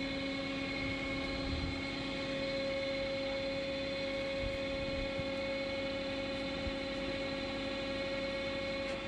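Electric motor of a screw cone log splitter running steadily with a constant hum.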